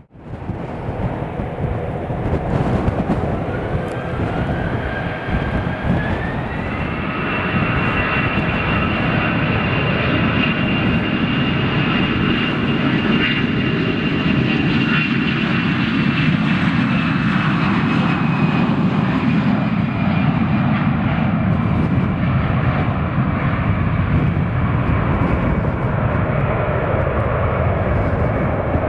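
Jet airliner's engines spooling up for takeoff: a whine rising in pitch over a few seconds and then holding steady, over a heavy rumble that builds and stays loud as the aircraft rolls and climbs out.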